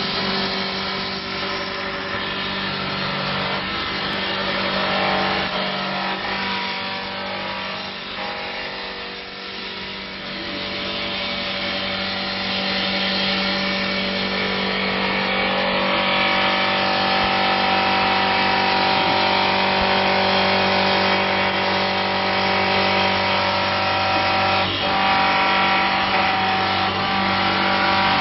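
CNC wood-turning lathe with rotary carving spindle running, its motors humming steadily while the cutter turns and carves a wooden baluster, with a rasping cutting noise over the hum. It gets somewhat louder and its pitch shifts about halfway through.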